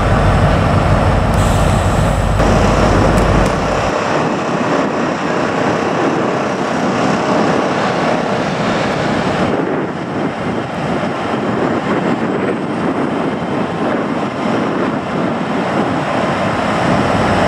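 A train running through the station: a low engine rumble that drops away about four seconds in, then a steady loud rushing noise.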